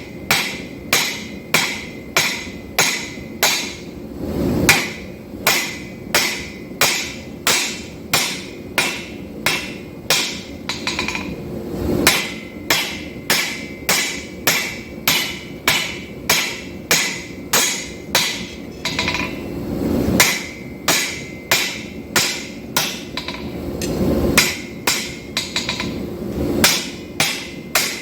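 Steady blows of a forging hammer on steel, about two a second, each leaving a short metallic ring, as 5160 steel is drawn out into an integral knife.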